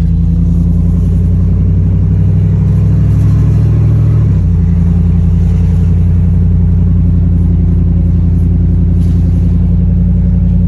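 Beater pickup truck's engine running loud and steady while the truck is driven, its note changing about four seconds in.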